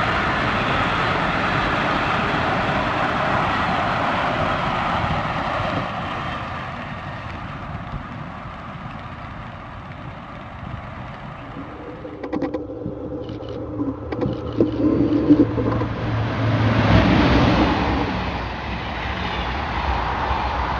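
Trains passing on the line. A loud rushing dies away over the first few seconds. Then come sharp clicks over a low steady hum, and the rushing swells again near the end as another train comes by.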